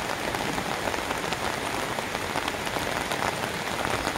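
Steady rain pattering on an open umbrella overhead: a dense, even patter of many small drop ticks.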